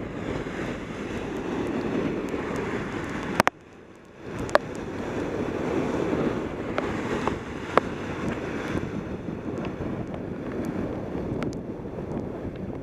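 Wind rushing over a helmet camera's microphone on a fast bicycle descent in heavy rain, mixed with the hiss of tyres on wet road. The rush cuts out suddenly for under a second about three and a half seconds in, and a few sharp ticks stand out above it.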